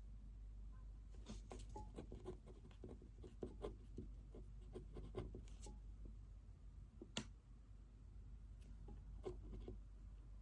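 Pen writing on paper: faint scratching strokes in quick irregular runs, with one sharp click about seven seconds in and a few more strokes near the end.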